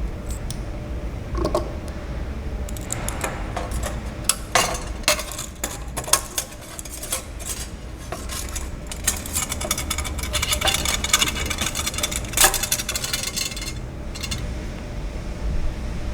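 Hose clamp band being bent and fed through holes in a metal bracket: irregular clinks, rattles and scrapes of metal on metal, busiest through the middle, over a steady low hum.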